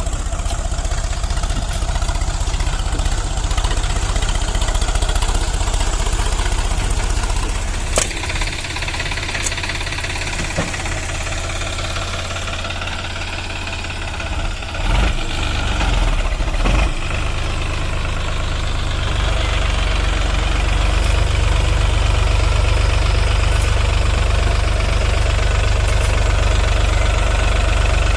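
Sonalika 745 tractor's diesel engine running steadily. There is a sharp click about a third of the way in and a few thumps in the middle, and the engine grows louder about two-thirds through.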